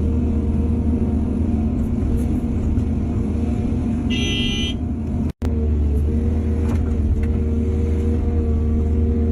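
Heavy diesel engine of an excavator running steadily with a deep hum. A brief high-pitched tone sounds about four seconds in, and the sound cuts out for an instant just after.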